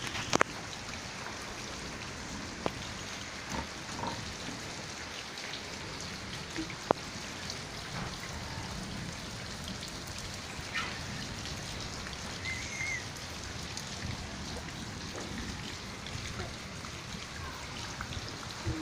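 Steady rain falling, an even patter with a few sharper taps scattered through it.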